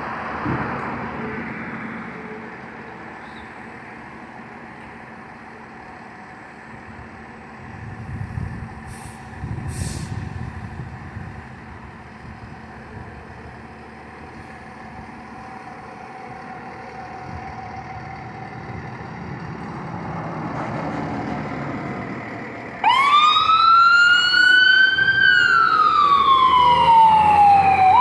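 Fire engine responding: a steady rumble of the truck's engine and road noise, with two short hisses partway through. Near the end its siren switches on suddenly and loudly in a wail, a whine that rises, falls and rises again.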